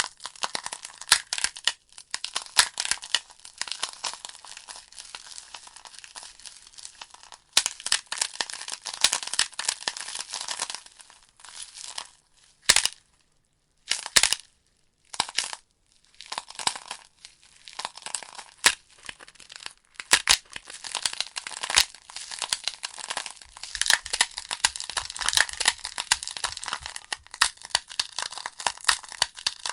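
Logs burning in a fireplace: dense wood-fire crackling with frequent sharp pops. It drops out to near silence for a few short moments around the middle.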